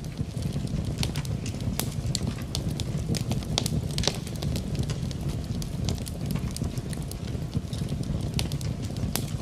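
Wood fire in a fireplace crackling, with many irregular sharp pops and snaps over a steady low rumble, together with the steady hiss of rain.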